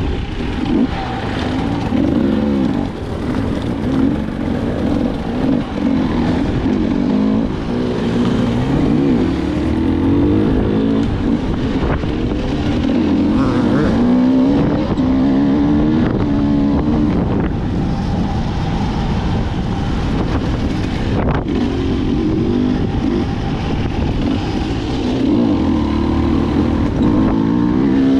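Dirt bike engine running while riding, revving up and down as the throttle and gears change.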